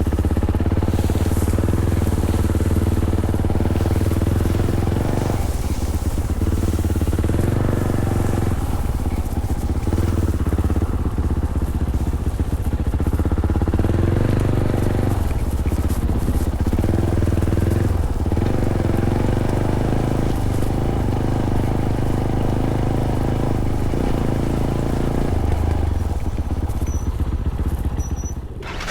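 Fantic Caballero 500's single-cylinder engine running under way through its stock Arrow exhaust. The engine note eases off and picks up again several times as the throttle is rolled off and on, with a brief dip near the end.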